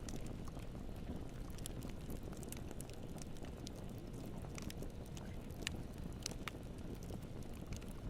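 Wood campfire burning: a steady low rushing with scattered sharp crackles and pops, a few louder pops a little past the middle.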